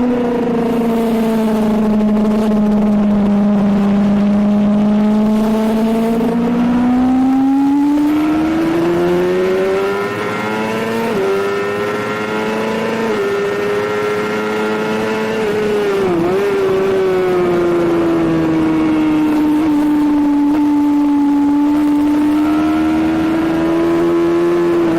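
Sport motorcycle engine at high revs, heard onboard while lapping a circuit, over steady wind and road noise. The pitch sags for a few seconds, climbs smoothly, shows a few small steps and a quick dip about two-thirds of the way through, then holds fairly steady to the end.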